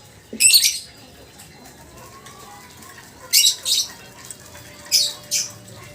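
Lovebird calling in short, shrill, high-pitched chattering bursts: one about half a second in, then two quick pairs near the middle and toward the end.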